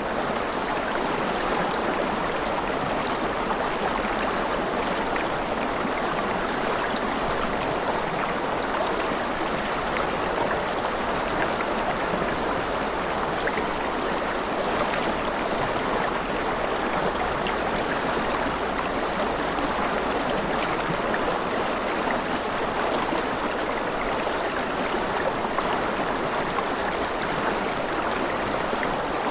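River water rushing steadily over rocks, a continuous even rush with no breaks.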